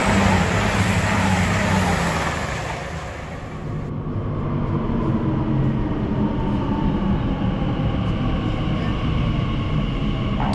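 Loud rushing rumble that changes abruptly about four seconds in to a steadier, lower rumble with a faint whine: an Elizabeth line Class 345 electric train running into an underground station platform behind platform screen doors.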